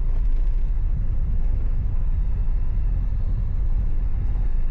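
Steady low road and engine rumble heard inside a moving car's cabin while driving.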